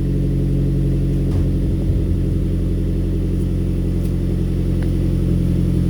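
Vehicle engine running steadily with an even low hum, shortly after a cold start from about two weeks of sitting.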